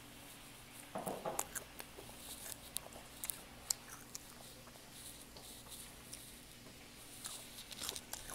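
Close-up chewing of a crisp Rice Krispie treat: small crunchy crackles and clicks, with a louder burst of crunching about a second in and scattered crackles after.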